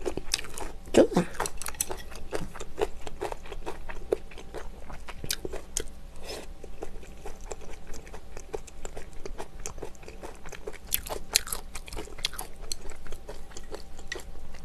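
Close-miked chewing of food, with crunching and many small wet mouth clicks throughout.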